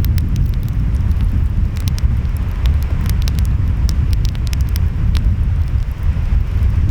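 Wood fire crackling, with many sharp pops scattered through, over a steady low rumble of waves and wind.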